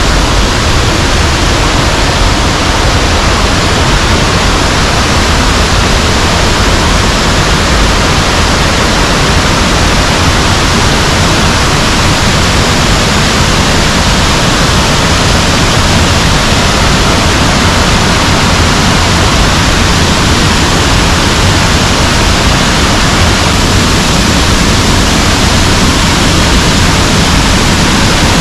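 Waterfall below a dam: water cascading in a loud, steady, unbroken rush.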